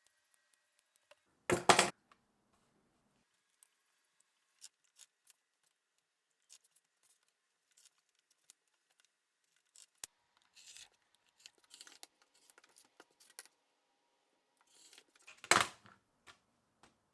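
Quilting fabric being handled, with light rustles and small clicks. Two short, loud swishing cuts come about a second and a half in and again near the end.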